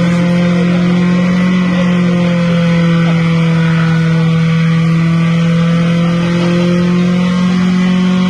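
Car engine held at steady high revs, one constant loud note.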